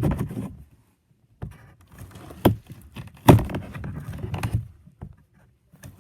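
Scraping and rustling handling noise with two sharp knocks, about two and a half and three and a quarter seconds in.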